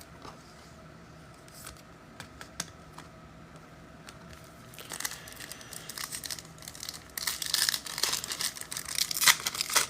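A foil trading card pack wrapper being crinkled and torn open by hand: a few faint clicks at first, then from about halfway a growing crinkling that turns loud in bursts near the end.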